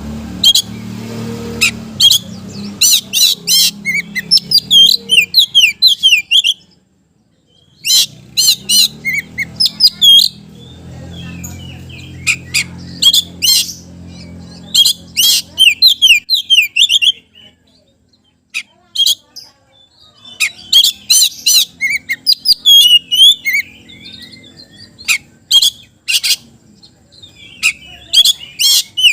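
Oriental magpie-robin (kacer) singing vigorously: rapid bursts of sharp chirps and sweeping whistled notes, broken by a couple of short pauses. A low hum lies under the song in stretches.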